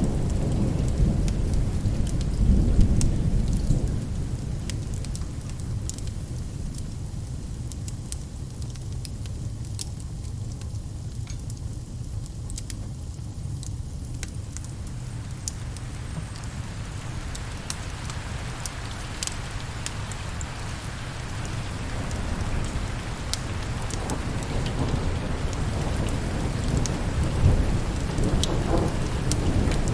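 Steady rain with rolling thunder. The thunder rumbles loudest in the first few seconds, eases through the middle and swells again near the end. Scattered sharp crackles sound throughout.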